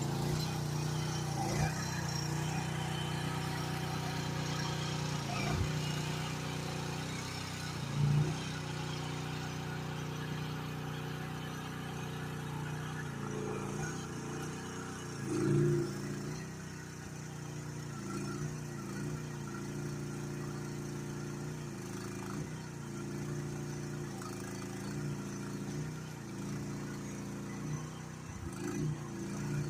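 Mini excavator's engine running steadily, its pitch dipping and bending briefly every few seconds as it is worked, with a couple of short louder surges.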